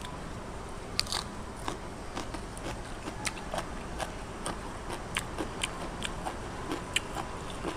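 A person chewing crunchy food close to the microphone, mukbang style: irregular crisp crunches and wet mouth clicks, the loudest about a second in.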